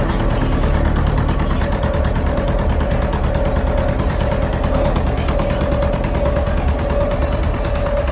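Tractor engine running steadily, with a fast, even rattle and a steady whine over it.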